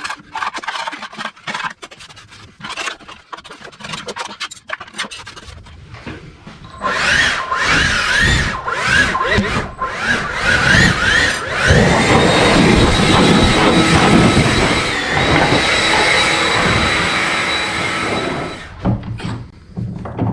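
A flat blade scraping caked wet grass off the underside of an aluminium mower deck. Scattered scrapes at first, then continuous scraping with squeaks from about seven seconds in, stopping near the end.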